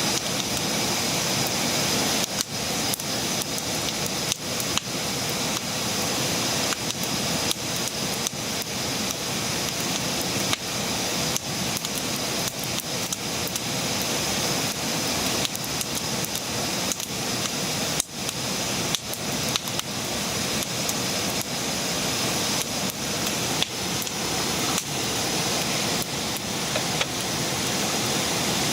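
Wood campfire burning, a steady hiss with frequent irregular crackles and pops.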